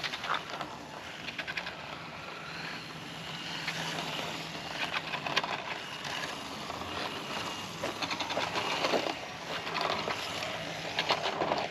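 X-Rider Mars 1/8-scale RC motorcycle running, with the rolling noise of its tyres and belt drive and scattered small clicks and rattles, and a faint steady hum underneath.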